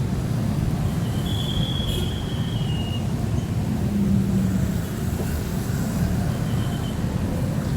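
Heavy rain on a city street with the low rumble of passing motor traffic. A thin, high-pitched squeal sounds from a little after a second in until about three seconds in, and a fainter one comes near the end.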